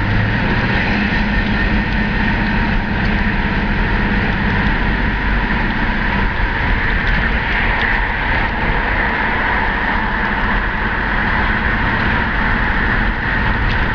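1970 Chevrolet Chevelle SS's big-block V8 running as the car drives in slow traffic, heard from inside the cabin over steady road noise. A steady engine tone fades into the road noise about six seconds in.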